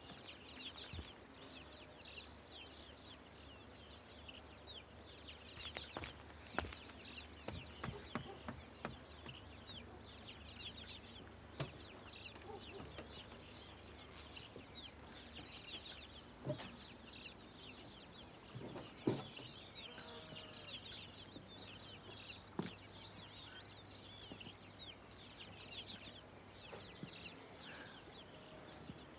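Faint ambience of birds chirping in many short, quick calls throughout, with a few soft knocks.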